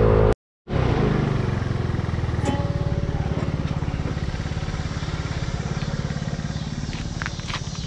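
A vehicle engine idling with a steady low pulse; the sound drops out completely for a moment just after the start, and a few light clicks come near the end.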